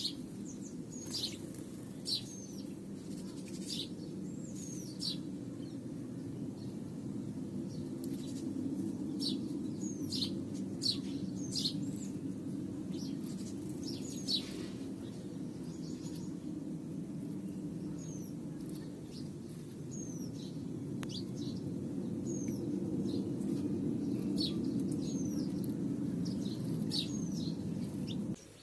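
Small birds chirping repeatedly: short, high calls that dip in pitch, a few every second or two, over a steady low hum that stops abruptly at the end.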